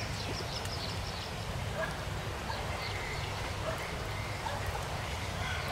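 Birds chirping: a quick series of short, high chirps that thins to scattered single chirps about a second in, over a steady low rumble.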